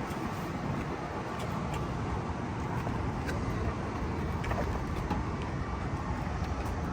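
Steady low rumble of motor-vehicle noise, with a few faint clicks.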